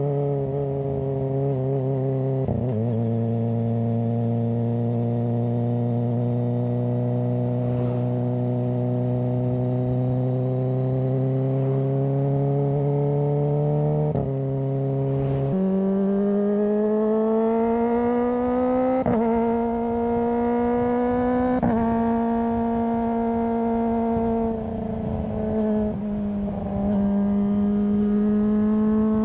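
Kawasaki ZX-25R's 250 cc inline-four engine and exhaust under way, holding steady revs and then climbing, with several sudden pitch steps at gear changes. It briefly eases off about three-quarters of the way through before pulling again.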